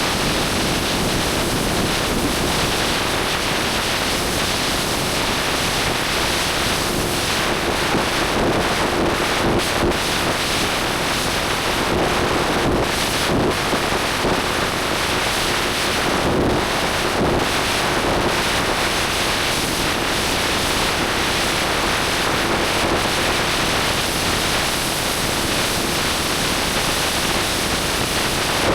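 Heavy wind rush over the microphone of a moving motorcycle, with the engine's faint steady hum underneath.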